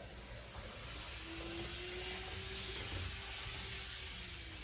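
N scale model locomotive running along a yard track: a thin motor whine starts about a second in, holds with a slight rise, and fades near the end, over a faint hiss.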